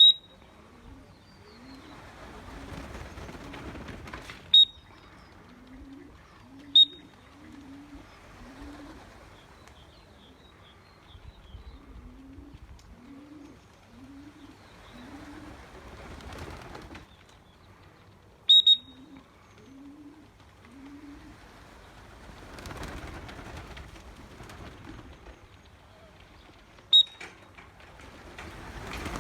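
Domestic pigeons cooing in runs of low repeated phrases. Several sharp clicks, each with a brief high ring, are the loudest sounds, one of them doubled.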